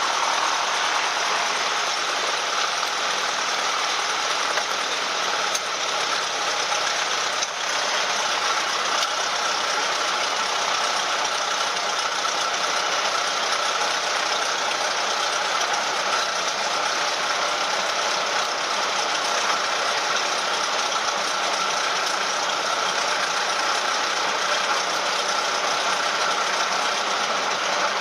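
Cessna 172M's four-cylinder Lycoming engine and propeller running steadily, heard from inside the cabin as a constant drone with a faint steady hum in it.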